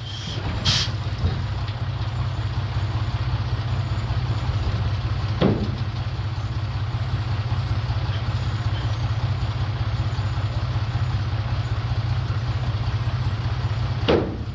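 Komatsu D31PX bulldozer's diesel engine running steadily at low revs, with three short sharp knocks: about a second in, midway, and near the end.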